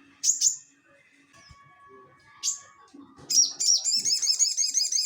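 A sogon (sogok ontong) songbird calling: sharp high chirps twice near the start and once about halfway, then a fast run of repeated high notes, several a second, from about three seconds in.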